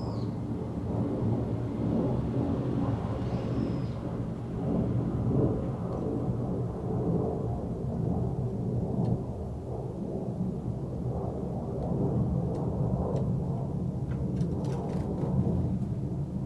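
Wind rumbling on the microphone, rising and falling in gusts. A single faint, short, high bird call comes about three and a half seconds in.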